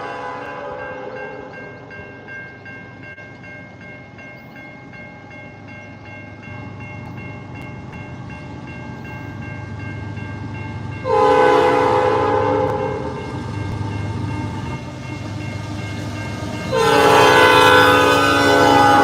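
Locomotive air horn, a five-chime Nathan AirChime P5, sounding its chord: a blast fading away at the start, a second blast of about two seconds near the middle, and a third starting near the end. Under it runs the rumble of a passing train.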